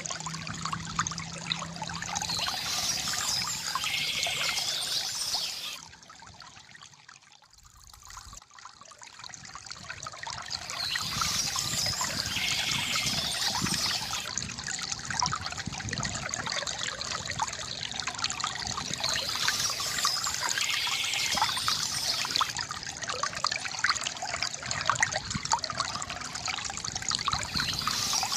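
Stream water trickling and splashing in a steady rush, which dips noticeably for a few seconds about six seconds in before swelling back.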